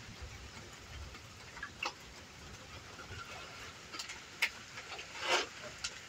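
Light rain falling: a steady hiss with scattered drips ticking, and one louder brief sound about five seconds in.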